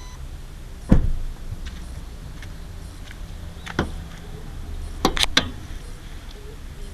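Car engine running with a steady low hum, and a few sharp knocks and clicks: a loud one about a second in, another near the middle, and a quick cluster of them near the end.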